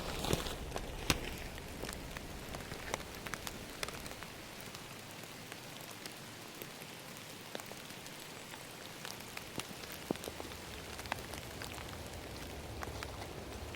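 Steady rain falling in a forest, with many separate drops ticking sharply at irregular moments over an even hiss.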